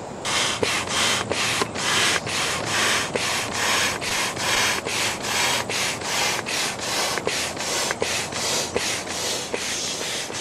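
Manual air pump inflating an inflatable raft seat through a nozzle: a steady run of rhythmic air rushes, about three strokes a second.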